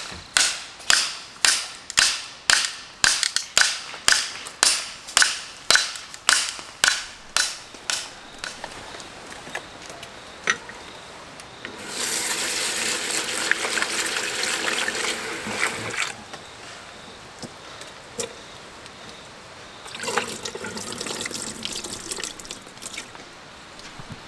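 Scrap wood being cut by hand: quick, even strokes about two or three a second for the first eight seconds or so. Later a steady rushing noise comes in for about four seconds, and more weakly a few seconds after.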